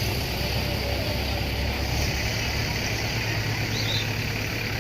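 An engine running steadily with a constant low hum under a haze of noise.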